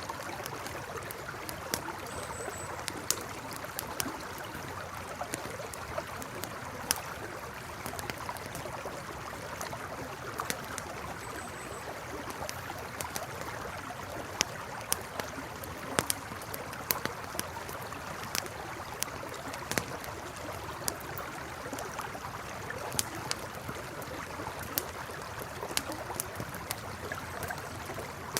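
A campfire crackling, with frequent irregular sharp pops and snaps, over the steady rushing of a river.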